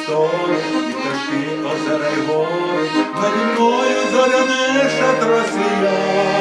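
Instrumental music led by an accordion, playing a melody over held chords and a bass line.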